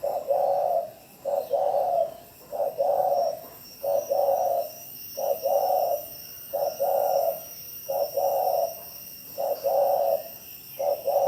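Spotted dove giving its rapid, urgent 'gáy thúc' cooing call: a two-part coo, a short note then a longer one, repeated about nine times at an even pace of roughly one phrase every second and a third.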